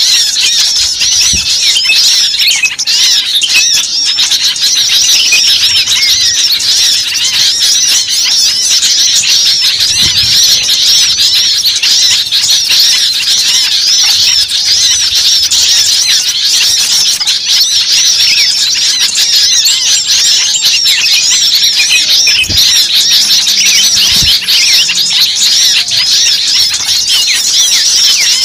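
Many small birds chirping and calling at once in a dense, unbroken chorus of short high chirps.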